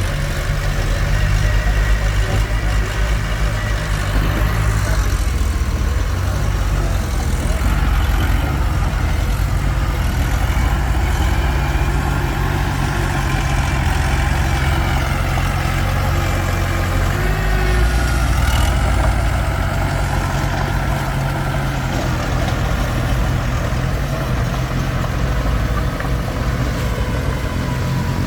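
Komatsu D21P bulldozer's diesel engine running steadily at work, with some higher metallic tones that wander up and down over it.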